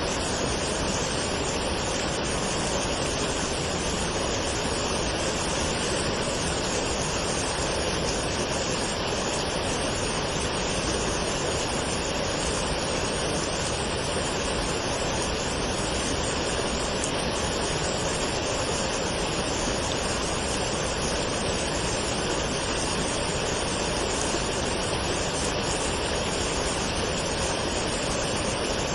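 Waterfall: water falling and splashing in a steady, even rush, with no change.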